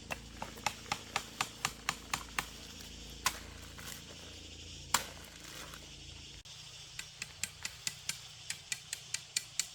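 Two runs of sharp, evenly spaced knocks, about four a second, with a few single knocks between them.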